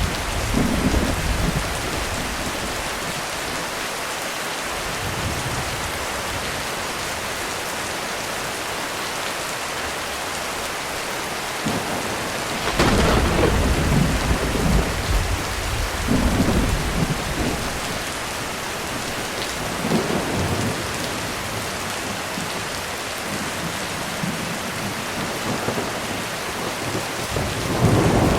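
Heavy rain falling steadily on a roof in a thunderstorm. About halfway through a sharp thunderclap cracks and rolls into low rumbling for several seconds, with further thunder rumbling near the end.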